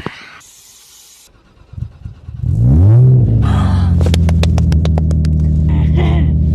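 A car engine catches about two and a half seconds in, revs up briefly and drops back to a steady idle.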